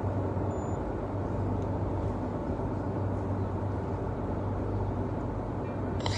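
Boat engine running with a steady low drone under a constant rush of noise.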